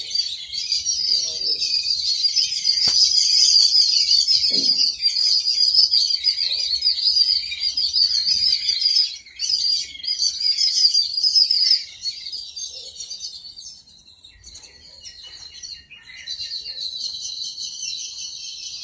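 Many small birds chirping together in a dense, overlapping chatter that thins out for a few seconds past the middle and then picks up again.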